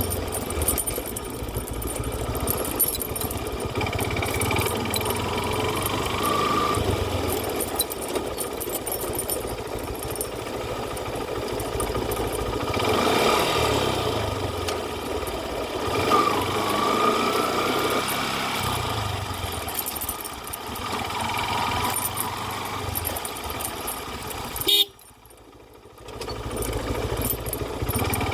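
Motor traffic: vehicle engines running with a few short horn toots. The sound drops out abruptly for about a second near the end.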